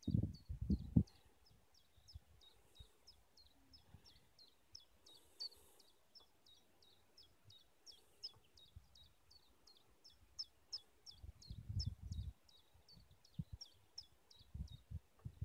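A small bird repeating a short, high, downward-slurred chirp about four times a second without a break. Low rumbling bumps come and go underneath, the loudest near the start and about twelve seconds in.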